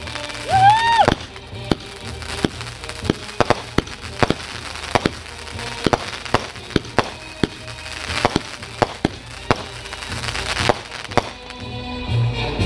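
Aerial fireworks going off in a rapid string of sharp cracks and pops, with a short whistle about half a second in. Music comes up near the end.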